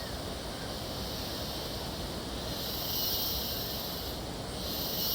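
Steady outdoor background hiss with a high-pitched, insect-like buzzing that swells louder twice, about two and a half seconds in and again near the end.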